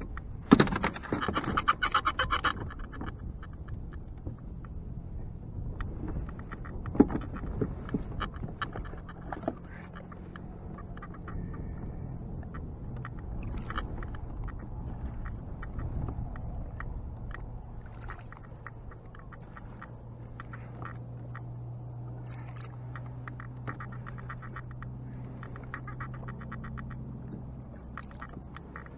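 Clattering and scraping of gear handled on a kayak, loudest in the first couple of seconds, with a few sharp knocks a few seconds later. A steady low hum with light ticking follows and runs until near the end.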